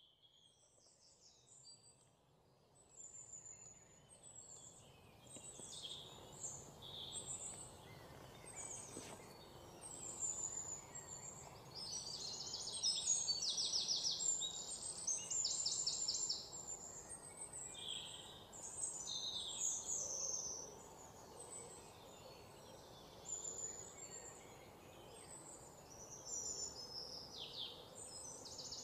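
Many small birds chirping and trilling, with fast repeated trills among the calls, over faint steady background noise.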